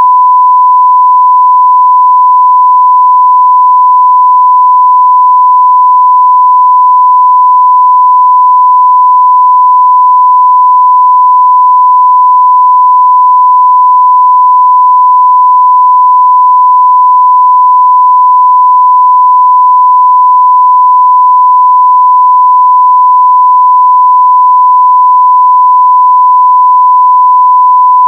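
Steady 1 kHz sine-wave test tone at full level, a single pure unbroken tone.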